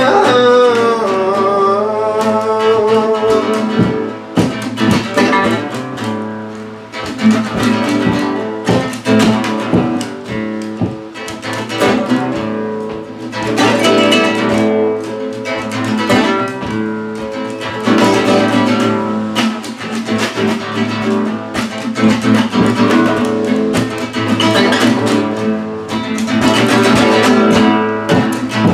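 Instrumental break of a song: acoustic guitar played with quick plucked and strummed notes, after the last sung note fades in the first couple of seconds.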